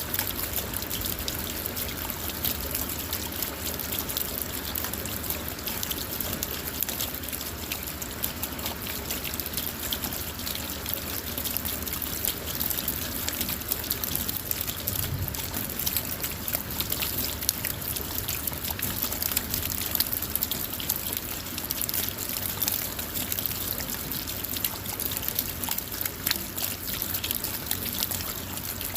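Steady rain falling on a car: a constant wash with a dense patter of individual drops.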